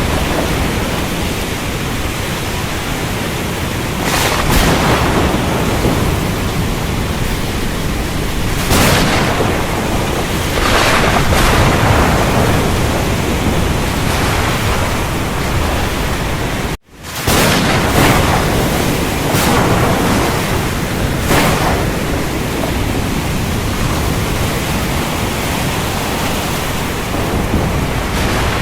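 Thunderstorm: steady heavy rain with several rolls of thunder swelling up over it. About two-thirds of the way through, the sound cuts out for a split second and comes straight back.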